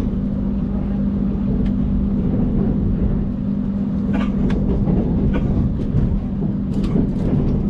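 Passenger train running, heard from inside the carriage: a steady drone and rumble with a constant hum, broken by a few sharp clicks and knocks about four seconds in and again near the end.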